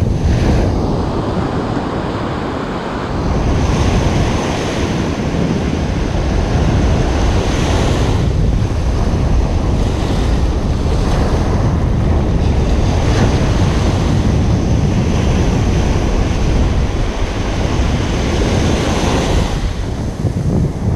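Ocean surf breaking on a beach: a continuous rushing wash that swells every few seconds as waves break, with wind rumbling on the microphone.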